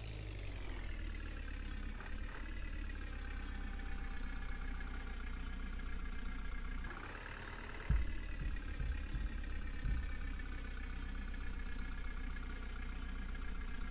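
Diesel engine of a JCB backhoe loader running: it settles from a rev over the first couple of seconds and revs up again about seven seconds in. A few heavy knocks follow about eight to ten seconds in, the first the loudest.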